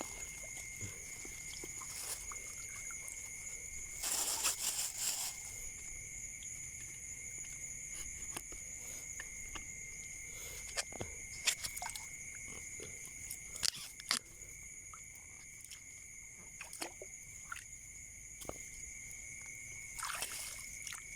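Steady high-pitched drone of insects in the background, with scattered clicks and bursts of rustling and crunching from movement through vegetation. The rustling is loudest about four seconds in and again near the end.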